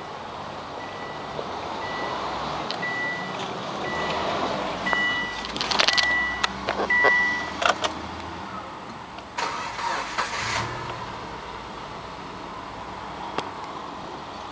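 An in-car warning chime beeping about every three-quarters of a second, stopping after several seconds amid a run of clicks and knocks. About nine and a half seconds in, the Subaru Impreza's 1.5-litre flat-four engine cranks briefly and starts, then settles into a steady idle.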